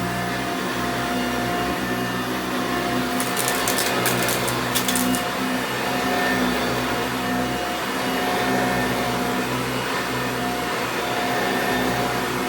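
A 1987 Eureka self-propelled upright vacuum cleaner running at a steady pitch, its motor hum and fan noise holding level. A few sharp high clicks come between about three and five seconds in.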